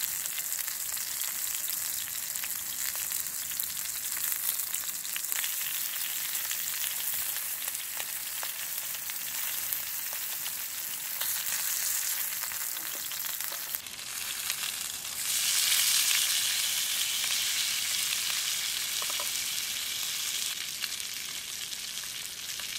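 Pork belly and kimchi sizzling in a frying pan, a steady frying hiss that grows louder about two-thirds of the way through.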